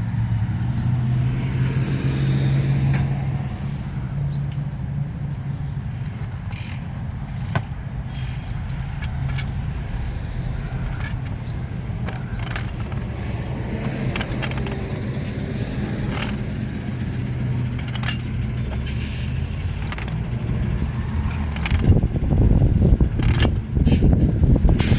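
A steady low engine hum, with scattered metallic clicks and scrapes of hand tools working a threaded valve fitting. A rougher, louder rumble comes in near the end.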